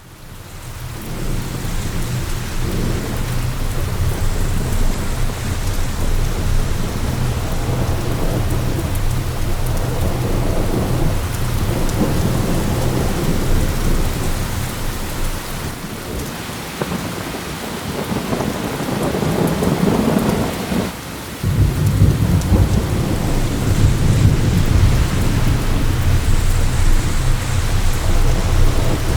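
Heavy rain falling during a thunderstorm, with a deep thunder rumble underneath. The rumble eases for a few seconds past the middle, then comes back suddenly and louder about twenty-one seconds in.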